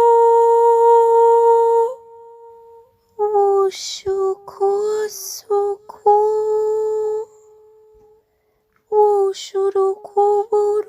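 A woman's voice chanting wordless 'light language' syllables on nearly one pitch. A long held note cuts off about two seconds in. After a short pause come quick broken syllables with hissing 'sh' sounds, then another held note, a brief silence near the end, and rapid syllables again.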